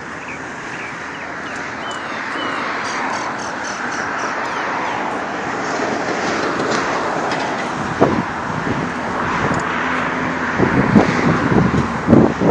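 Rushing wind and road noise on a body-worn microphone while riding a bicycle, growing gradually louder. From about eight seconds in come a series of sharp knocks and rattles.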